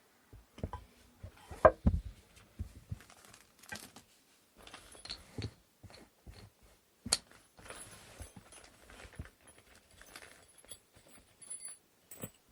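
Wooden inkle loom parts being handled and fitted together: scattered knocks and clicks with light rustling, the loudest a sharp knock about two seconds in.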